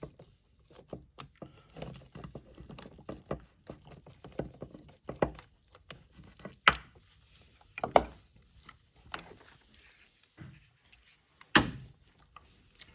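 Socket wrench tightening bolts on an engine: irregular light clicks and small metal taps, with several sharper knocks spread through, the loudest near the end.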